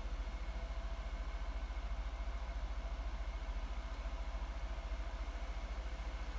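Daimler Super V8's supercharged 4.0-litre V8 idling, heard as a steady low rumble with a fast, even pulse.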